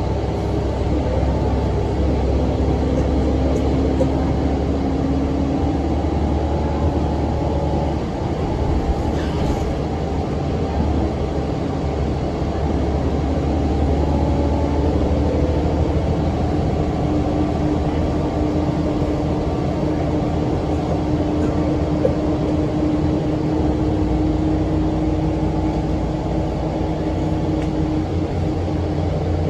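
Cummins ISM diesel engine of a 2006 NABI 40-foot low-floor transit bus running, with its engine cooling fan running, heard from inside the bus. It is a steady low rumble with a humming tone that rises a little in pitch partway through.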